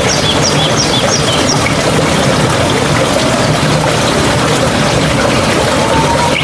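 Mountain stream running steadily. A bird calls a quick run of about five short high notes in the first two seconds.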